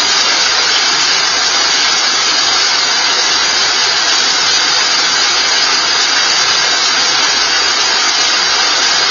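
A steady, loud rushing hiss with no distinct events, cutting in and out abruptly.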